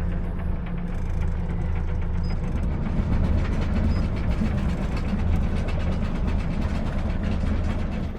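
Electric anchor windlass letting out chain: a fast, continuous rattle of chain links running out, over the steady hum of the boat's engine.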